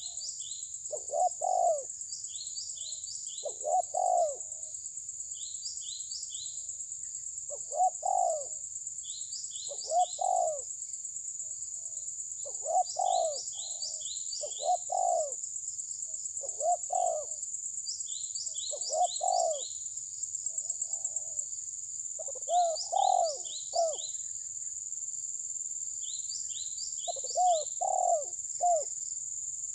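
Birds calling: short low notes in groups of two to four repeat every second or two, with quick high chirps from a smaller bird in between, over a steady high hiss.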